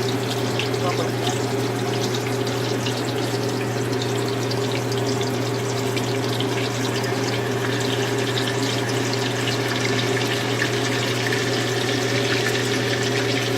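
Ghee heating in a pan on the stove, with fine steady crackling over a constant low hum.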